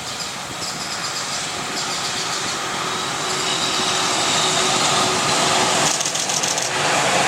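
Container freight train hauled by an EH500 electric locomotive approaching, its rolling noise growing steadily louder, with a brief run of rapid clicks near the end.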